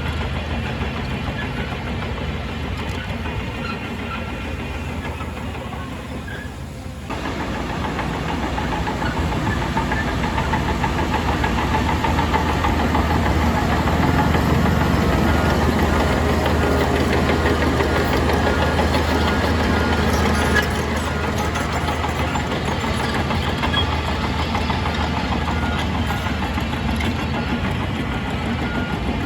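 Heavy diesel earthmoving engine running, working harder and louder from about seven seconds in and easing back a little near twenty seconds. After that, a reversing alarm beeps repeatedly over it.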